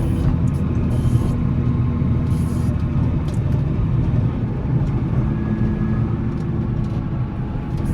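Volvo L70C wheel loader's diesel engine running steadily with a low drone, its note shifting slightly about halfway through.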